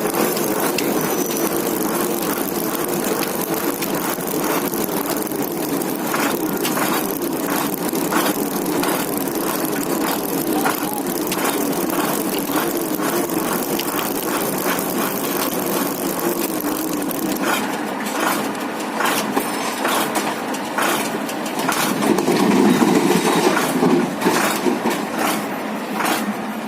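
Heavy lorry running steadily, a continuous vehicle noise with many short crackles over it, growing louder for a couple of seconds near the end.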